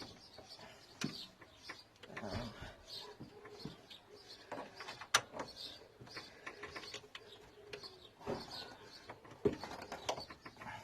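Scattered light metallic clicks and knocks as suspension bolts and parts are worked into place by hand, with faint bird chirps in the background.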